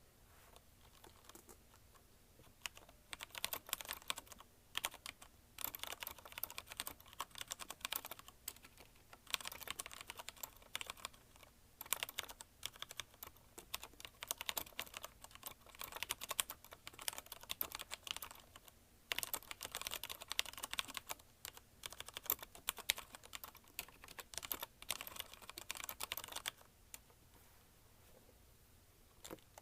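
Fast typing on a CM Storm Quick Fire TK mechanical keyboard with linear Cherry MX Red switches, a dense patter of key strikes and bottoming-out clacks in long runs. It starts about three seconds in, has a couple of short pauses, and stops a few seconds before the end.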